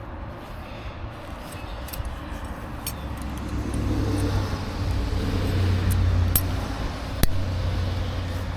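A motor vehicle's low rumble that swells to its loudest in the middle and then eases, with a few sharp clicks, the clearest about seven seconds in.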